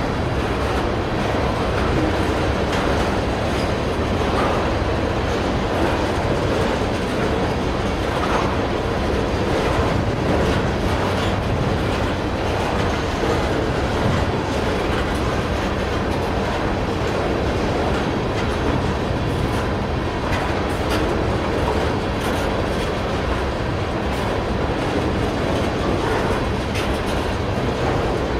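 Railroad tank cars of a long freight train rolling past: a steady rumble of steel wheels on the rails, with frequent light clicks as the wheels cross rail joints.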